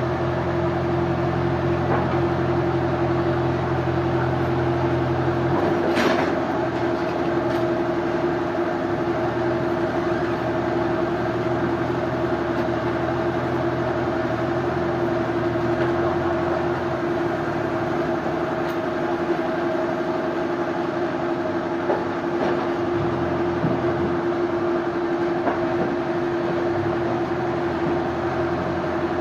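Sawmill machinery running with a steady hum; its low drone changes about six seconds in, and there are a few sharp knocks.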